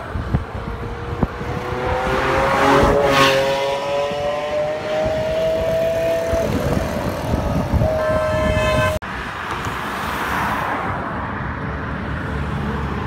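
Lamborghini supercar engine accelerating, its note climbing steadily for several seconds, with a brief rush of noise about three seconds in. A steady held tone sounds just before an abrupt cut at about nine seconds, after which road and wind noise continue.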